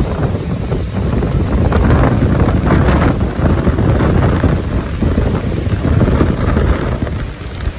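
Hurricane-force wind buffeting the microphone: a loud, gusty rumble that rises and falls without letup.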